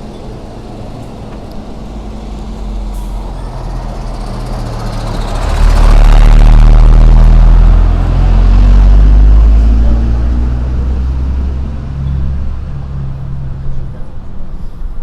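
A heavy vehicle's engine passes close by. Its low rumble swells in from about four seconds, is very loud for several seconds, then fades away.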